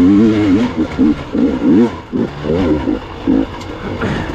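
Gas Gas EX 300 two-stroke enduro motorcycle engine revving in short bursts, its pitch rising and falling again and again as the throttle is blipped over rough, technical ground.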